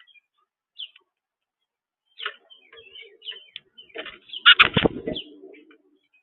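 Small birds chirping at a backyard seed feeder, with scattered short calls and a low murmur underneath. About four and a half seconds in there is a brief, louder flurry of sharp thumps.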